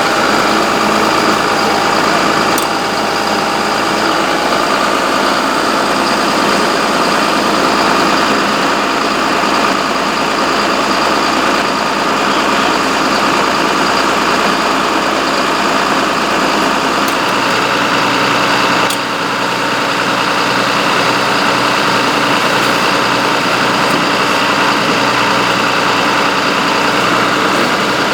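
A steady engine running at idle, a continuous drone with held tones that shifts slightly in pitch twice.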